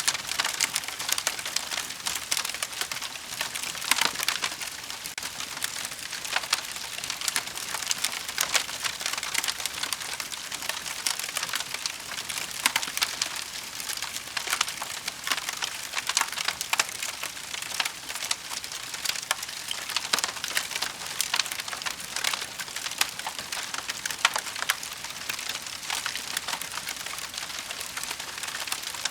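Wood fire burning in a fireplace: a steady dense crackle of many small pops and snaps over a soft hiss.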